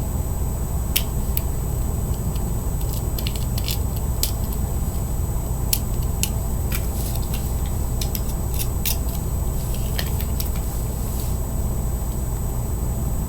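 Fingernail scraping leftover grip tape adhesive off a fingerboard deck: irregular small scratchy clicks, thinning out near the end, over a steady low hum.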